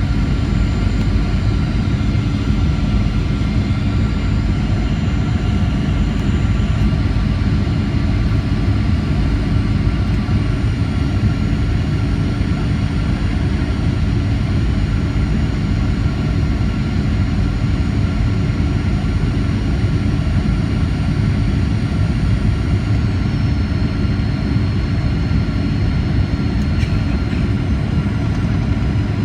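Boeing 737-800's CFM56-7B turbofan engines running, heard from inside the cabin: a steady heavy rush with thin whining tones above it. A couple of the high whines shift in pitch about seven seconds in and again around twenty-three seconds.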